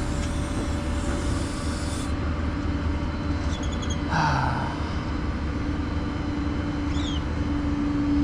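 An engine idling steadily, a low rumble with a steady hum, with a few short bird chirps over it and a brief swish about four seconds in.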